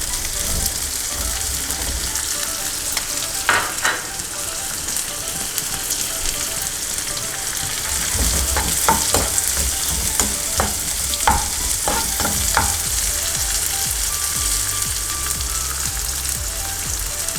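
Ginger, garlic, carrot strips and green chillies sizzling in hot oil in a pan, a steady frying hiss. Every so often a spatula strikes and scrapes the pan as they are stirred, a few times around four seconds in and then repeatedly in the second half.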